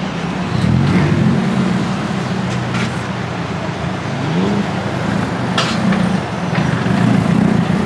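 A car engine running close by at a low, steady pitch, getting louder about half a second in, with a brief rise in revs about four and a half seconds in.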